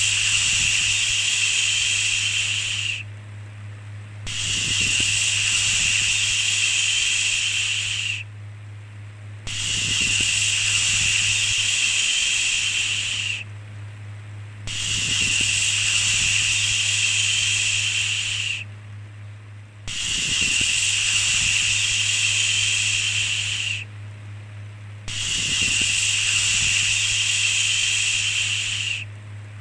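A long 'shhh' hushing sound, repeated about every five seconds: each shush lasts about four seconds, followed by a pause of about a second. A steady low hum runs underneath.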